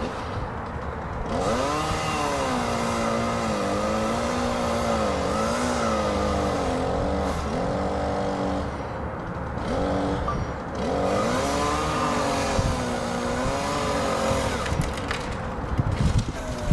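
Volvo ECR145EL excavator's diesel engine working under hydraulic load, its pitch sagging and rising again and again as the hydraulics are worked. It eases off briefly about nine seconds in and again near eleven seconds.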